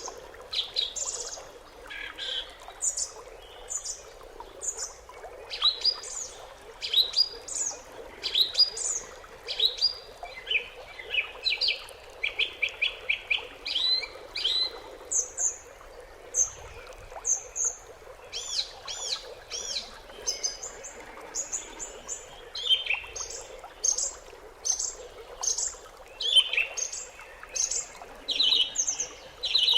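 Songbirds chirping: many short, high chirps and sliding calls, with a quick run of evenly spaced notes near the middle, over a faint steady hiss.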